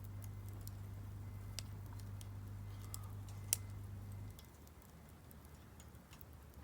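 Firewood crackling in a Solo Stove Campfire fire pit: scattered sharp ticks and pops, one louder pop about three and a half seconds in. A low steady hum underneath cuts off about four seconds in.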